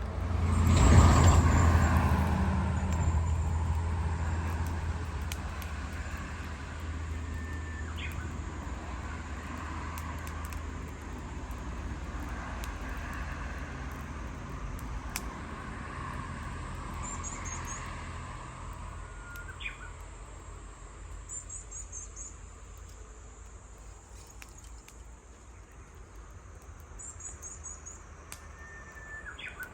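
A vehicle passing close by, loudest about a second in and fading away over the next several seconds into a low background rumble. Short bird whistles come every ten seconds or so, with a few brief high trills between them.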